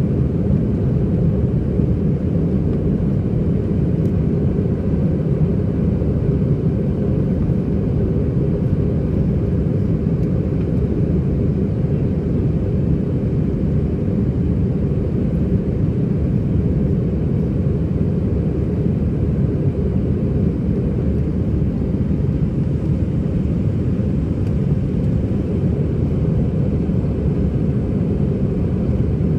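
Airbus A320-211 cabin noise heard from a window seat: the steady low roar of the CFM56 engines at high thrust during takeoff and climb-out, with air rushing past the fuselage.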